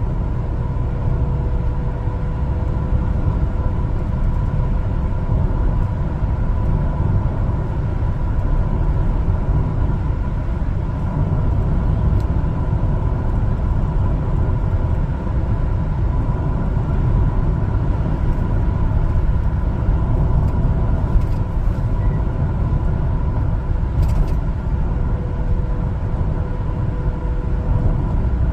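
One-ton LPG cargo truck driving at a steady pace: a constant low rumble of engine and road noise with a faint, thin steady whine.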